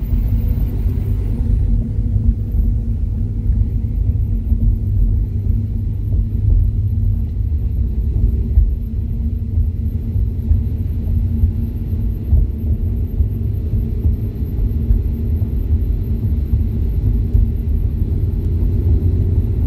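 Chevrolet Camaro ZL1 1LE's supercharged 6.2-litre V8 running gently as the car rolls at about 20 mph, heard from inside the cabin: a steady low engine and road sound.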